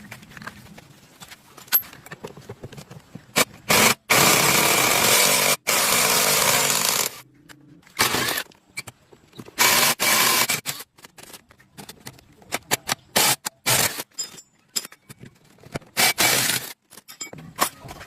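A power tool run in repeated bursts, the longest about three seconds, with short pauses between.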